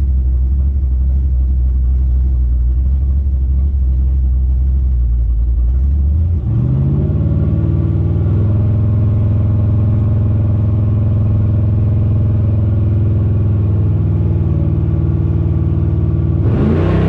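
Small-block Chevy V8 running at a low steady speed, then rising in pitch about six seconds in and holding a higher steady speed.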